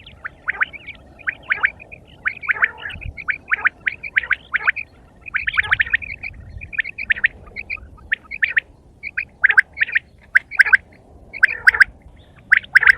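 Quail calling: a string of short, sharp chirping notes that come in quick irregular clusters.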